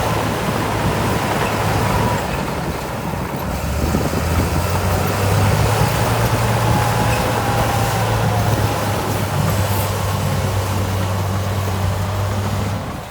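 Heavy diesel engine of an earthmoving machine running steadily, with a faint whine above the low engine note.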